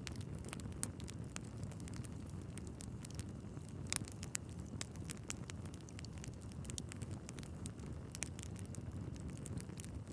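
Wood fire burning in a fireplace: a steady low rumble of flames with irregular sharp crackles and pops from the logs, a louder pop about four seconds in and another about eight seconds in.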